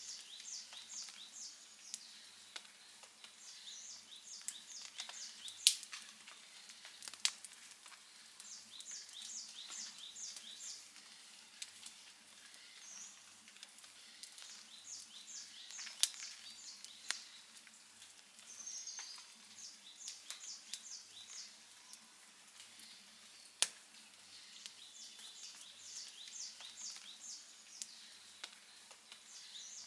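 Outdoor wood fire crackling, with steady small ticks and a few sharp, much louder pops spread through. Behind it, short runs of high, rapid chirps repeat every few seconds.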